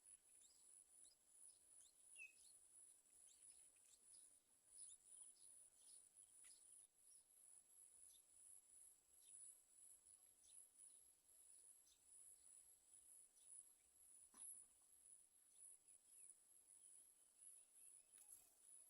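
Faint insects trilling steadily in a high, rapidly pulsing tone, with a few soft ticks and one brief high chirp about two seconds in.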